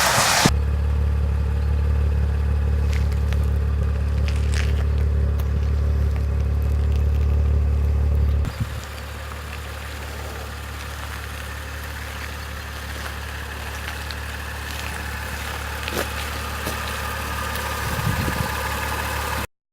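Audi RS4's 2.9 TFSI twin-turbo V6 idling steadily. About eight seconds in, the idle drops to a quieter, lower note, with a couple of faint clicks near the end before it cuts off.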